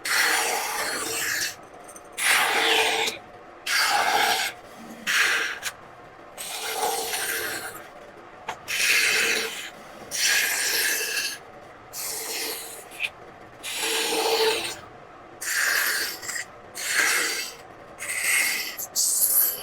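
Carving tool cutting into a wooden printing block: a series of scraping strokes, each about a second long, with short pauses between them.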